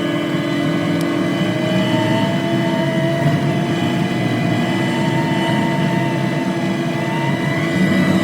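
A heavy machine's engine running steadily while working, with a whine that drifts slowly up and down in pitch.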